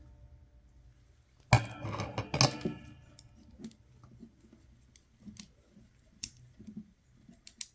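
Small metal parts being handled while a little heatsink is mounted on a 7805 voltage regulator: two sharp clinks with a short ring, about a second apart near the start, then a scatter of light clicks and taps.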